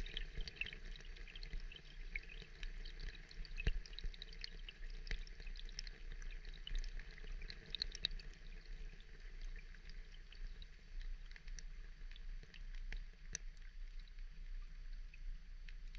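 Steady rain, a dense patter of many small drops and drips.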